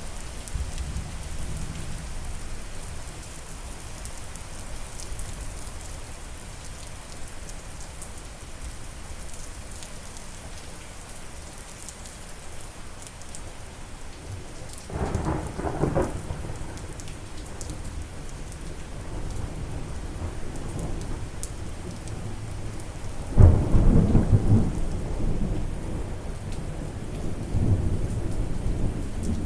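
Steady rain falling, with two rolls of thunder: one about halfway through and a louder, longer one about two-thirds through that rumbles on and fades slowly.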